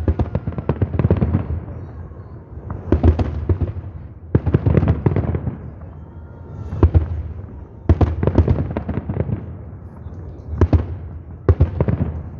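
Fireworks salute going off: clusters of sharp bangs and crackling every second or two, with low rumbling in between.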